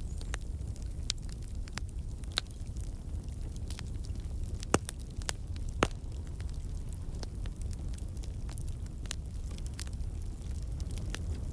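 Campfire of burning logs crackling, with a steady low rumble of the flames under scattered sharp pops and snaps, two louder pops near the middle.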